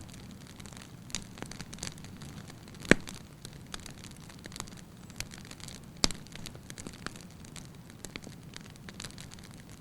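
Wood logs burning: scattered sharp snaps and crackles over a low, steady rush of flame, with two loud pops about three seconds in and about six seconds in.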